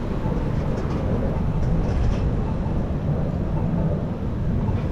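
Steady low rumble of wind and road noise heard while riding a bicycle along a city street.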